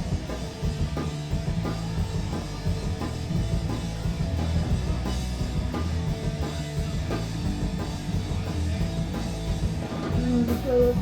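Punk rock band playing live at full volume: drum kit, bass and electric guitar driving a fast song that has just kicked in. A voice starts singing near the end.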